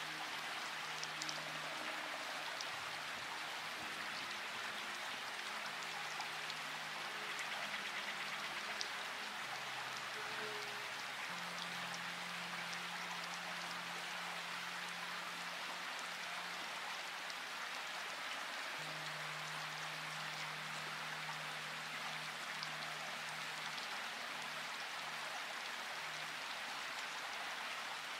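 Steady rain falling, an even hiss with scattered drop ticks. Underneath is soft, slow music of long held low notes that change pitch every few seconds.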